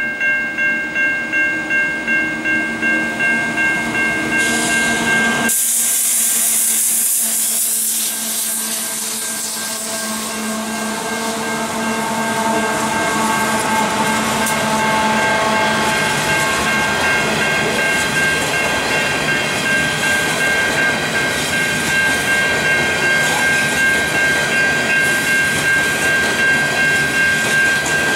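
Level crossing warning bell ringing about twice a second as a coal train passes over the crossing. About five seconds in, a loud hiss rises over the bell as the train reaches the crossing. The hopper wagons then roll through with a steady rumble, and the bell strokes come through clearly again over the wagons near the end.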